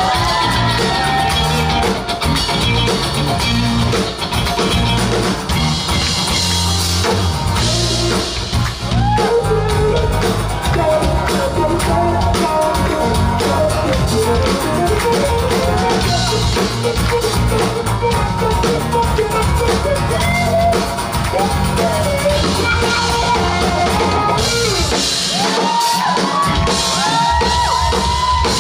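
Live band playing a rock song: drum kit and bass keep a steady beat under a bending lead melody line.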